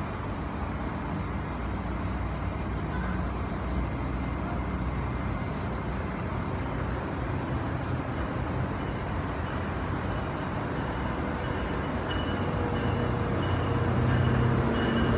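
Steady background rumble, with an approaching Tri-Rail commuter train growing louder over the last few seconds, its steady hum and whine rising as it nears.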